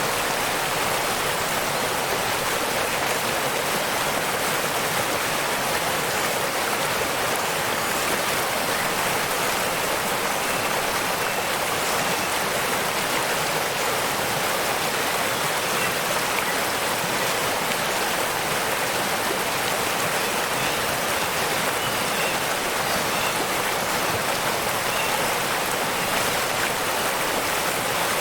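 Waterfall: a steady, unbroken rush of falling water, even in level, its sound lying mostly in the middle and upper range with little low rumble.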